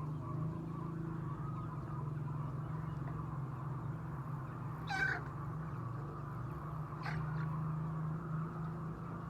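Laying hens in a poultry shed over a steady low hum, with one sharp, high squawk about five seconds in and a fainter call about two seconds later.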